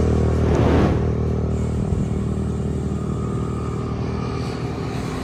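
A motor vehicle's engine running steadily, with a passing rush of noise about a second in.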